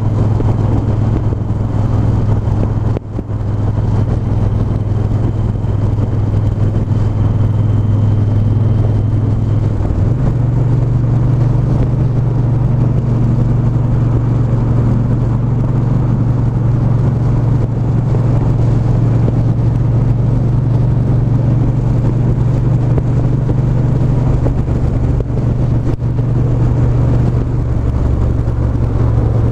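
Triumph 1200 cc parallel-twin motorcycle engine running steadily on the road. Its note breaks briefly about three seconds in, as at a gear change, then steps up in pitch about ten seconds in and holds there.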